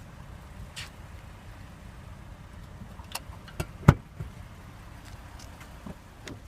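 A few sharp clicks and one louder knock about four seconds in, over a steady low rumble.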